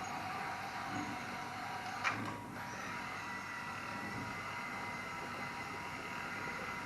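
Hydraulic pump and motors of a radio-controlled scale construction machine whining steadily, with one sharp click about two seconds in.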